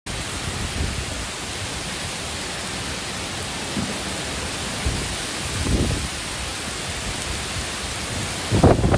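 Heavy rain pouring down as a steady hiss, with a few low rumbles swelling up, the loudest near the end.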